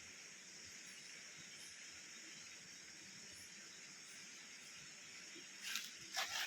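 Faint, steady high-pitched chirring of insects, with two short noisy bursts near the end.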